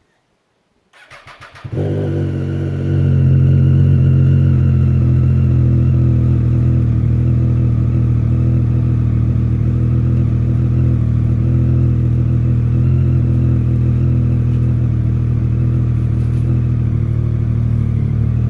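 2006 Triumph Daytona 675 inline-triple motorcycle engine with a Micron slip-on exhaust, cold-started at 45°F: the starter cranks briefly about a second in, the engine catches and its note climbs, then it settles into a loud, steady cold idle.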